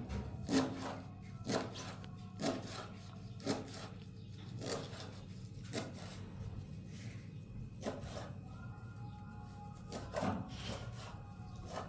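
Repeated rubbing or scraping strokes, roughly one a second with a few longer gaps, over a steady low hum.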